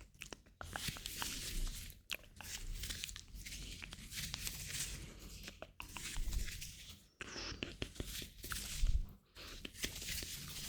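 Close-miked hands rubbing and crinkling, with many small clicks and snaps, in short strokes broken by brief pauses.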